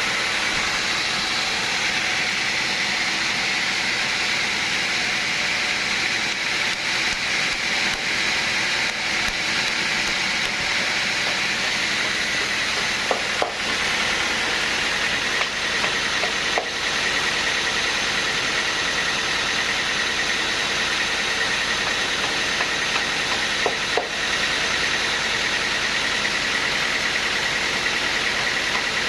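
Sawmill machinery running steadily: a constant loud hiss with a high, even whine, broken by a few brief dips and small knocks.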